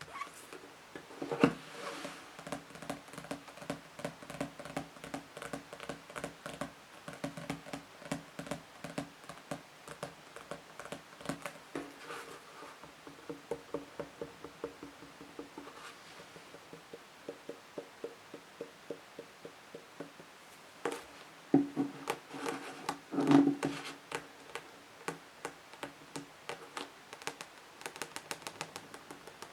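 Fingernails tapping on books, a dense run of quick light taps with a few louder knocks about a second and a half in and again about two-thirds of the way through.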